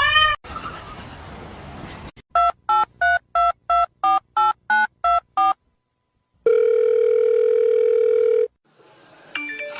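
Touch-tone telephone dialing: about eleven short two-tone beeps in quick succession, then, after a pause, one steady ringback tone about two seconds long.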